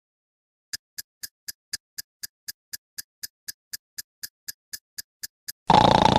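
Clock ticking sound effect, a steady four ticks a second. Just before the end a loud snore starts abruptly.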